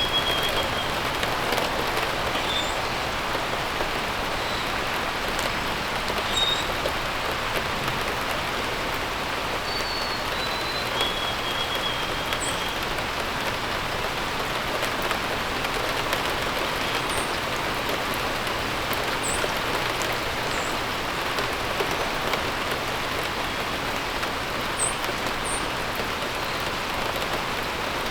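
Steady rain falling, with a few brief bird chirps and short calls scattered through it.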